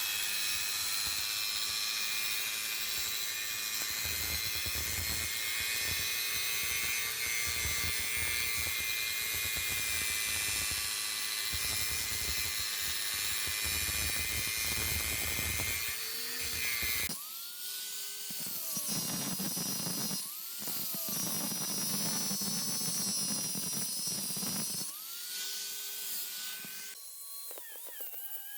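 Handheld electric grinder working steel: a high motor whine over heavy grinding noise for about the first two-thirds. After that the tool runs more freely, with its pitch sagging and recovering, briefly cutting out and spinning back up a few times.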